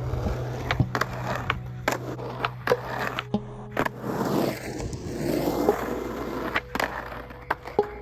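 Rough rolling and scraping noise broken by sharp clacks and knocks, about one or two a second, over a steady low hum that drops away about halfway through.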